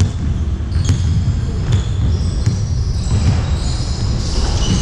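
A basketball bouncing on a gym floor during play, with three sharp bounces under a second apart near the start and middle. A steady low rumble of the hall runs beneath, with short high squeaks.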